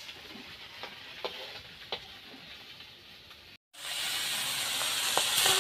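Small fish frying in hot oil in a wok, sizzling, with a few light taps of the spatula on the wok in the first seconds. After a brief cut a little past halfway, the sizzling is louder and steadier.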